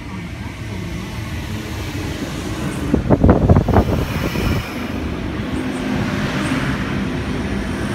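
Sydney double-deck electric suburban train running close by along the platform: a steady low rumble that grows louder, with a brief loud clatter of wheels about three seconds in, then a steady running hum.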